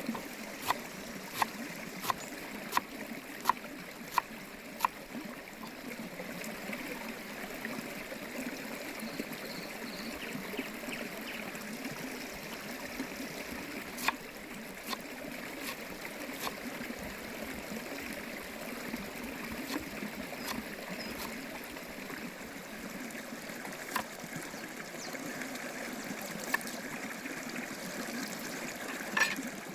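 Steady trickling of running water, with a run of evenly spaced sharp knocks, about three every two seconds, that stops about five seconds in, and a few single knocks later.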